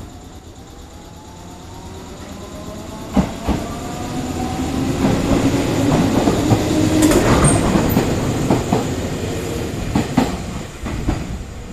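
Electric commuter train pulling away from the station and passing close by. A motor whine rises in pitch as it accelerates, the wheels clack over rail joints several times, and a brief high squeal comes from the wheels as it goes past.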